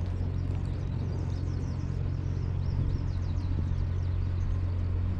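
A steady low engine hum, with faint high chirps above it.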